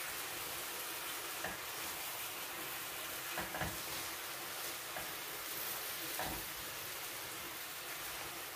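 Chicken adobo sizzling in soy sauce in a frying pan, a steady hiss, while a utensil stirs it, knocking lightly against the pan a few times.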